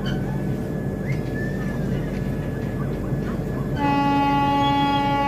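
Steady low rumble and hum of a departing train hauled by a WAP7 electric locomotive, with one horn blast of about a second and a half near the end.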